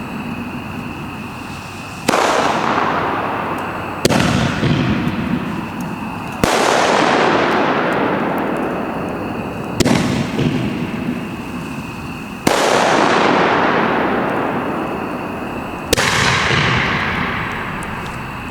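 Homemade fireworks going off in a series: six sharp bangs, each followed by a loud hissing, crackling tail that fades over two to three seconds before the next one.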